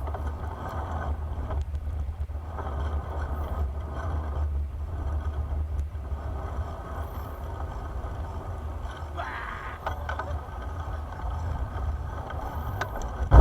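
Steady riding noise from a bicycle on the move: a deep wind rumble on the microphone with road noise beneath it.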